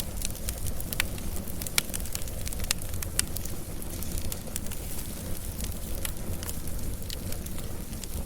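Wood fire burning, with a steady low rumble of flame and frequent sharp crackles and pops of burning logs.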